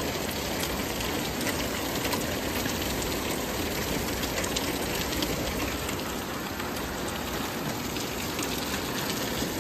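Heavy rain falling steadily on pavement, parked cars and standing water: an even hiss with scattered faint ticks.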